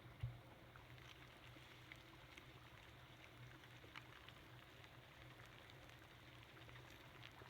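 Faint crackle of a wood campfire: scattered sharp ticks over a low steady hum, with one soft thump about a quarter second in.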